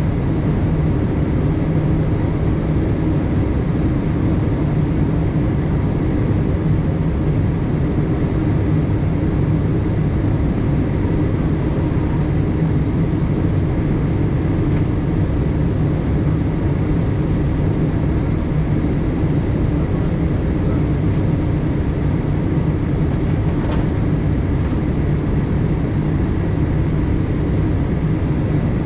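Steady cabin noise inside a Boeing 787-8 in flight: the low hum of the engines and the rush of air along the fuselage, unchanging in level, with one faint click about two-thirds of the way through.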